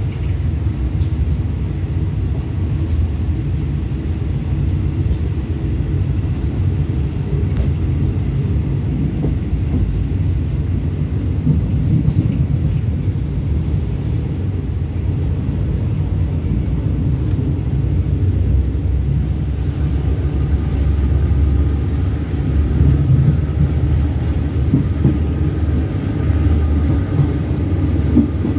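Passenger train coach running on the rails, heard from inside the carriage as the train pulls out of the station and gathers speed: a steady low rumble, with a faint high whine rising in pitch over the second half.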